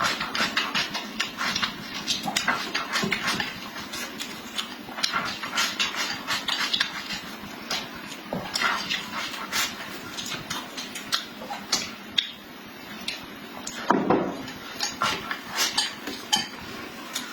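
Dishes and utensils clattering: many quick, irregular clicks and knocks, with a louder, fuller knock about fourteen seconds in.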